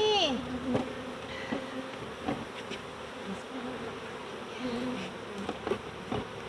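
Many honey bees buzzing around the hive, a low hum that wavers in pitch, with a few faint clicks.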